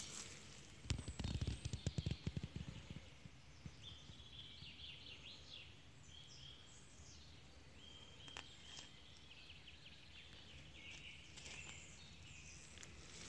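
A songbird singing faint, high phrases of short flat notes and trills. Just after the start, a couple of seconds of low thudding and rumble.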